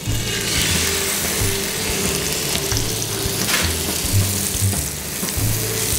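Marinated salmon fillet sizzling steadily in a thin film of hot vegetable oil on an electric griddle's flat plate, the sizzle starting as the fish is laid down flesh side first.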